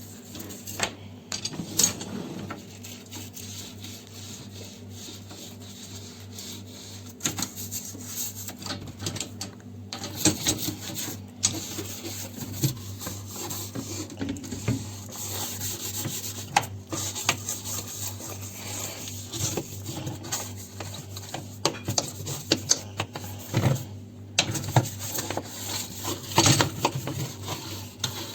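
Hand scrubbing inside a dishwasher tub: irregular rubbing and scraping strokes, with an occasional sharp knock.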